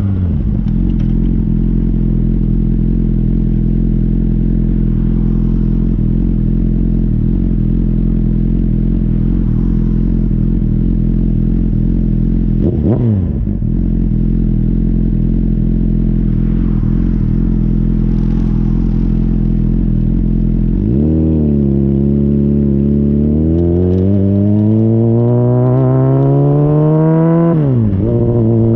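Honda CBR600RR's inline-four through a Yoshimura RS-5 exhaust, heard right at the outlet while riding. It holds steady revs with a brief dip about thirteen seconds in, then from about twenty-one seconds the revs climb under acceleration, falling sharply and picking up again near the end as with a gear change.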